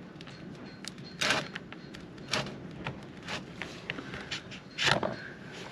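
Handling noise from working a Stihl MS390 chainsaw's carburetor loose by hand: four short scrapes, about a second apart, among small clicks of plastic and metal parts.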